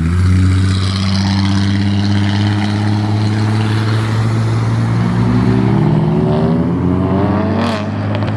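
A car engine running loudly close by with a steady low drone, then revving up, rising in pitch, about six seconds in as the car pulls away, with a sharp crack near the end.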